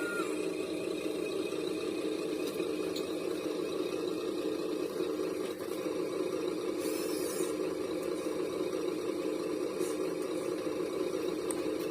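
A small motor running steadily, with a few faint clicks and a short high rustle about seven seconds in.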